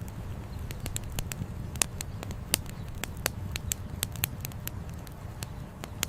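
Wood fire crackling with irregular sharp pops, a few of them louder, over a steady low rumble.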